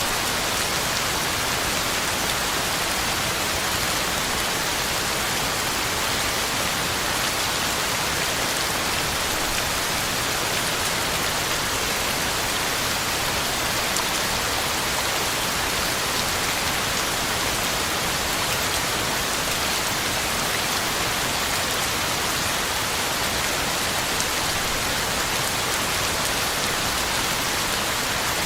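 Heavy rain falling steadily on the ground and leaves, a constant even hiss of drops with no thunder.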